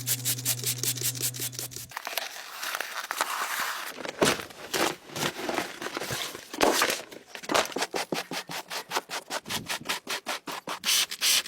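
Rapid scrubbing strokes during car cleaning, about five a second, with a steady low hum under the first two seconds that stops.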